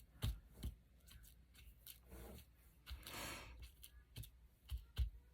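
Paper being handled on a craft table: several light taps and knocks, with a short rustle of paper about three seconds in.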